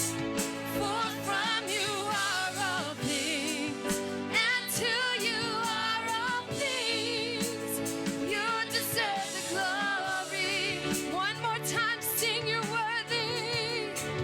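Gospel worship song: singing with vibrato over sustained keyboard chords and bass.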